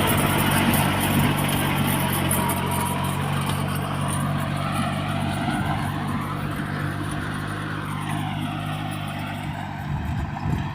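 VST Shakti VT 224-1D compact tractor's diesel engine running at a steady speed, a constant low hum; its note breaks up and changes near the end.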